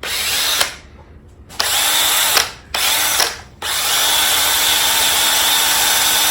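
Electric drill running in four bursts with a steady motor whine, the last one longest, while buffing a plane's finish with steel wool and mineral spirits.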